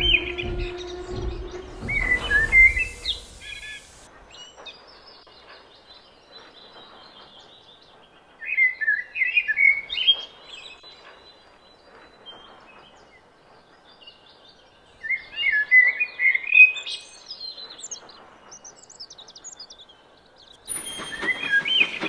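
Birds chirping in three short bursts of quick high twittering over a faint background. A low hum and rumble fades out in the first few seconds, and a rumble with hiss builds near the end.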